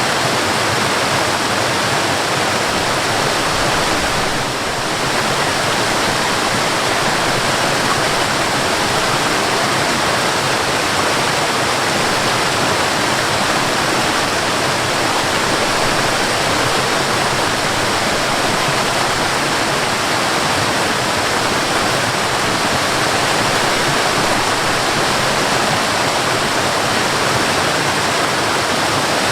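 Waterfall: steady, dense rush of falling water, dipping slightly in level for a moment about four seconds in.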